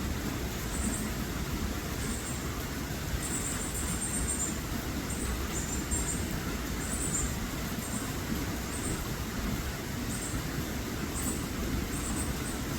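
A small bird giving short, very high chirps about once a second, some doubled or trilled, over a steady low rumble.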